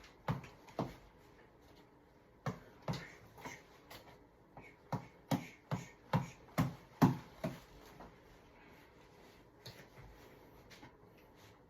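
Boxing reflex ball (tap ball) being punched: sharp irregular smacks, a few at first, then a run of about a dozen at roughly two a second, after which only faint taps remain.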